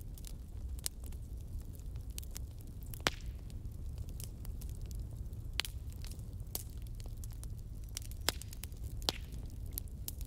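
Wood fire burning: a steady low rumble with scattered sharp crackles and pops, a few louder snaps among them.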